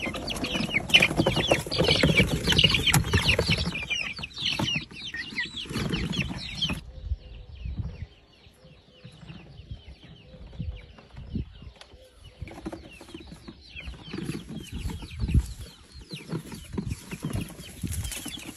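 A flock of young chickens cheeping and clucking densely, with rustling, knocks and a little wing flapping. The sound drops abruptly quieter about seven seconds in, leaving sparser calls and bumps.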